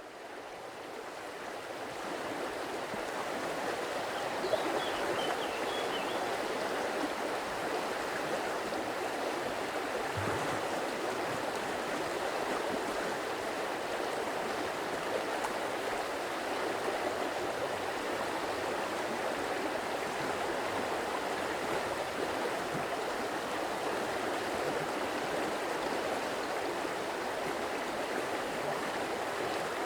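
Flowing stream water, a steady rush of running water that fades in over the first few seconds.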